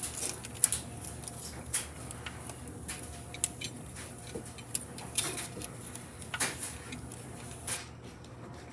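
Irregular light clicks and knocks of parts and lines being handled in a car's engine bay, over a steady low hum.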